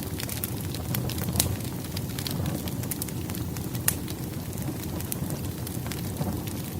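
Firewood burning in a fireplace: a steady low rush of flames with frequent sharp crackles and pops, two louder pops about a second and a half and about four seconds in.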